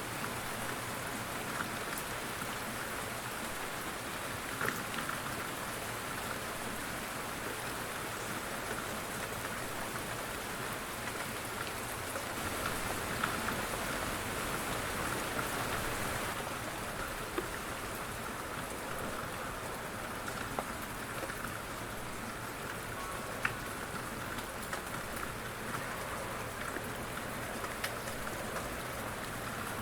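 Steady light rain falling on a surface, a constant patter with occasional louder individual drops.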